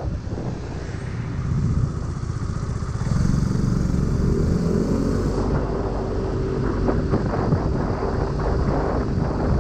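Motor scooter running under way, a steady low engine rumble mixed with wind noise, growing louder about three seconds in, with a steady whine coming in shortly after.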